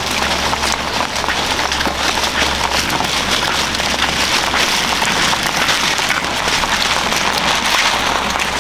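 Food sizzling steadily in hot oil in a pan, with a dense crackle.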